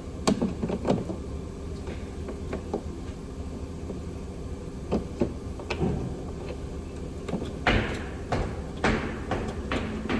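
Irregular knocks and clanks of tools or parts being handled in a car repair shop, about a dozen, the sharpest a little after the start and bunched toward the end, over a steady low background hum.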